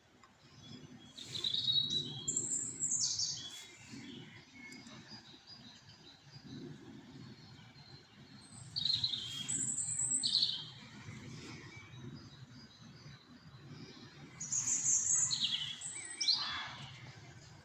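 A songbird singing three short phrases of quick, high notes that fall in pitch, a few seconds apart, over a low, steady rush of running water.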